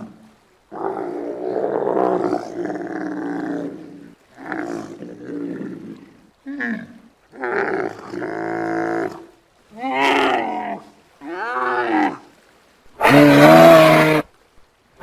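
Giraffe calls: a series of separate deep, pitched calls, each lasting from about half a second to two seconds, some falling in pitch, with the loudest and longest one near the end.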